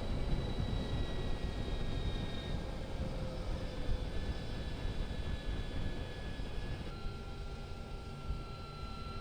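Wind rushing over the microphone while riding an Energica Experia electric motorcycle, with the thin high whine of its electric motor. The whine's pitch shifts about seven seconds in as the speed changes.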